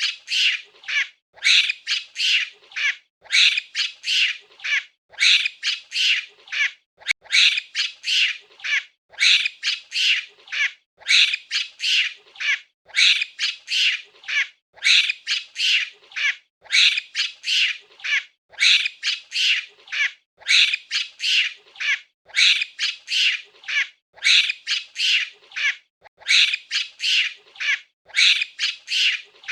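Monkey calls: rapid, high-pitched squawking chatter in clusters of a few calls, with a short break about every two seconds, repeating throughout.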